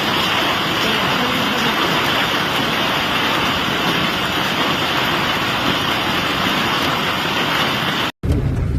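Heavy rain pouring down, a loud, steady, dense hiss. Near the end it cuts off abruptly and gives way to a lower rumble with a few scattered clicks.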